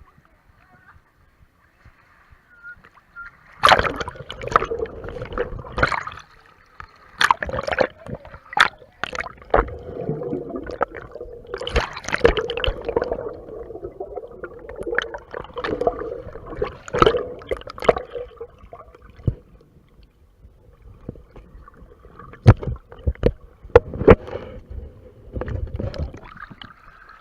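Water splashing and sloshing against a GoPro in its waterproof case, heard muffled through the housing. It starts about four seconds in and comes in irregular bursts with sharp hits, easing off for a few seconds after the middle before picking up again.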